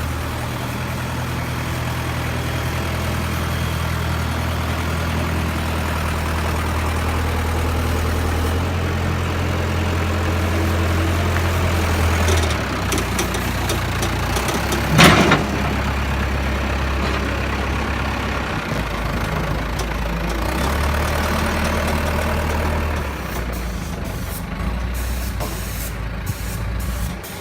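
Heavy engine running steadily, its low hum stepping in pitch a few times, with one short, loud hiss or bang about halfway through.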